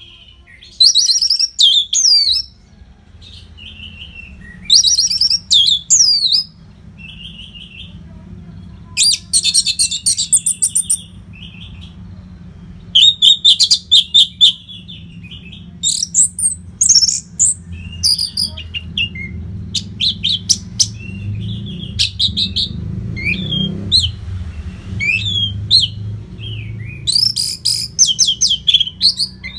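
Orange-headed thrush singing continuously: loud, varied phrases of high whistles and rapid trills, one after another with only short gaps. A low steady hum runs underneath.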